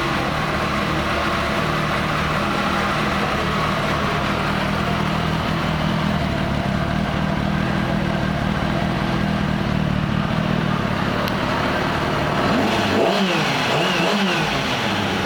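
2008 Kawasaki Ninja ZX-6R's inline-four engine idling steadily, then briefly revved up and back down near the end.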